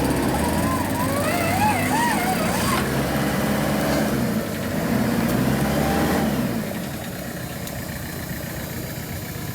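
Off-road vehicle engine running under load, easing off about six and a half seconds in. A wavering higher sound rides over it for a couple of seconds near the start.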